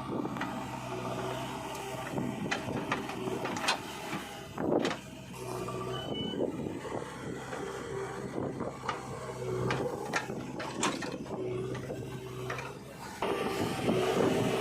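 Heavy diesel machinery running steadily at low revs, with scattered sharp knocks and clanks of metal and one louder thump about five seconds in.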